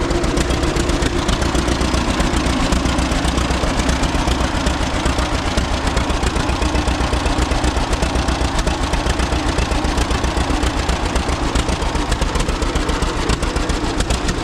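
Two-cylinder engine of a 1936 unstyled John Deere A running steadily at idle, an even, rapid beat of exhaust pops.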